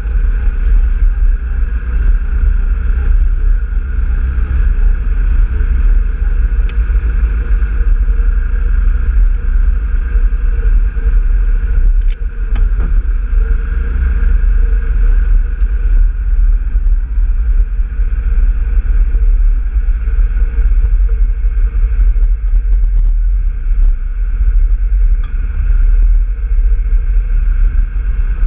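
Off-road vehicle engine running at a fairly steady pace, with a heavy low rumble of wind buffeting the microphone.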